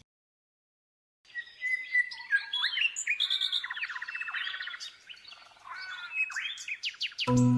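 A small songbird chirping and trilling in quick, varied phrases of high notes, some of them buzzy rattles. Music starts just before the end.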